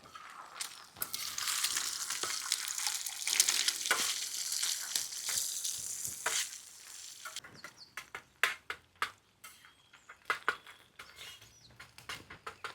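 Food frying with a sizzle that lasts about six seconds and then dies down, followed by scattered light clicks and taps.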